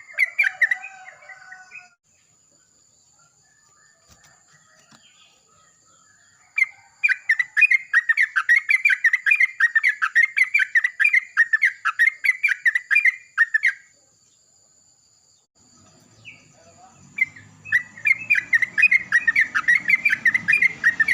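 Yellow-vented bulbuls (trucukan) singing loud, rapid runs of chattering notes in three bouts with quiet gaps between them, one bird answering another.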